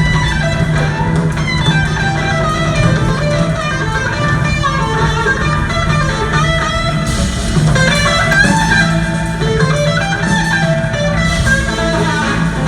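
Live rock band music led by electric guitar lines over bass and drums, with cymbal washes about seven seconds in and near the end.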